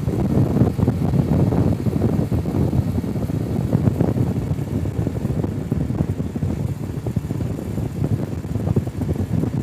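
BMW G 310 GS single-cylinder motorcycle running steadily under way, with wind buffeting the microphone.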